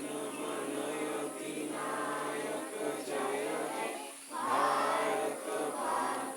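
Several voices singing together, choir-like, over a steady low accompanying note that shifts pitch a few times; the singing swells loudest a little past the middle.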